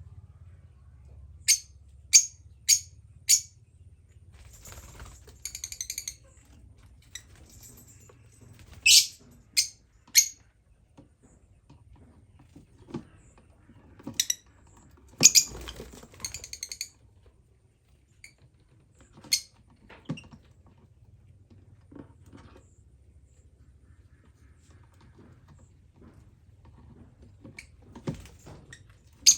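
Lovebirds giving sharp, shrill chirps in scattered clusters, four quick ones about a second and a half in and more later, with a few short, rapid chattering runs between them. A faint low hum runs underneath.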